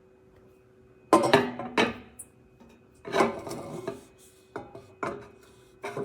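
Stainless steel tea kettle being handled: about six sharp metal clanks and clinks, each ringing briefly, coming irregularly after about a second.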